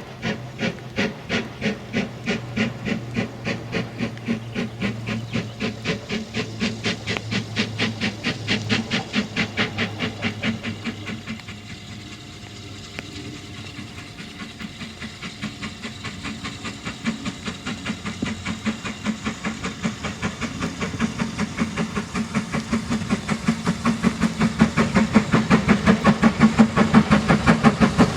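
Steam locomotive exhaust beats, about two chuffs a second with a hiss of steam. The beats fade away about eleven seconds in, then build up again and are loud by the end.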